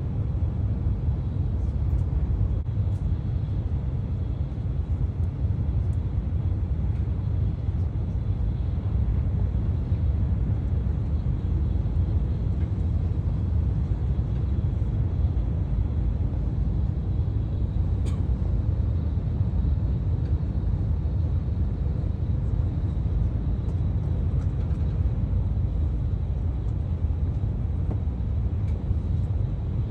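Steady low rumble of a moving train heard from inside the carriage, with a single sharp click about eighteen seconds in.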